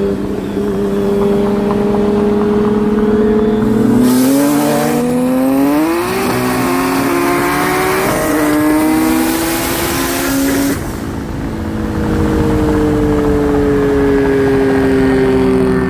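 Car engine, the VQ V6 of a modified Nissan 370Z, running steadily at first. About four seconds in it revs up hard, its pitch climbing in steps through gear changes. A little before eleven seconds it lifts off and the pitch slowly falls as the car coasts.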